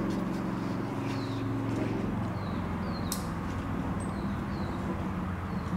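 A small bird giving short, falling chirps over and over, against a steady low hum of several tones. A single sharp click about three seconds in.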